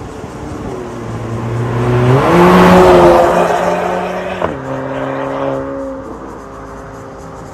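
Exhaust note of a VW Golf 280TSI's turbocharged 1.4-litre four-cylinder through an MS-R valved catback exhaust. It swells to a loud peak about three seconds in and falls away, with a sharp crack about a second and a half later. Electronic background music plays underneath.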